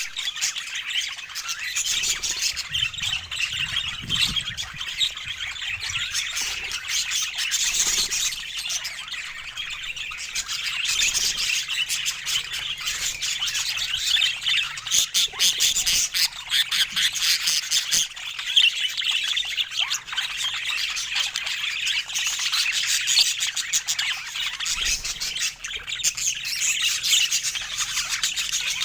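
Budgerigars chirping and chattering continuously, a dense warble with squawks mixed in, with a few small clicks and knocks.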